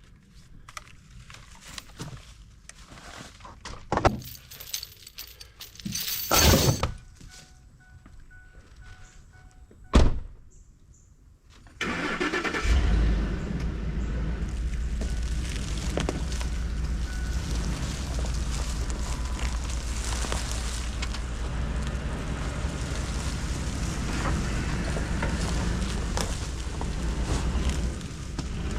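A few sharp knocks and thunks, the loudest about ten seconds in. A couple of seconds later a pickup truck's engine starts and then runs steadily.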